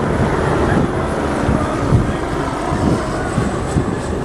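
Eurocopter BK 117 helicopter flying past, a loud steady rumble of rotor and engine.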